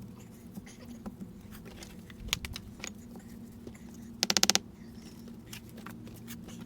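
Building work on stone: scattered sharp clicks and knocks of tools and stones, with a quick run of about eight loud taps about four seconds in, over a steady low hum.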